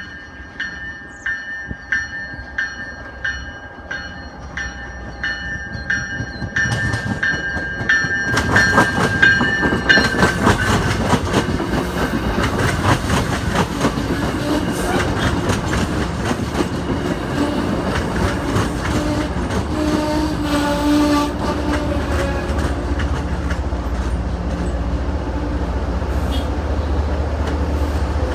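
A push-pull commuter train passing close by. A high ringing warning tone repeats about twice a second as it approaches and stops about ten seconds in. Then come the rumble and clatter of passing bilevel coaches' wheels on the rails, with the deep rumble of the diesel locomotive pushing at the rear growing louder near the end.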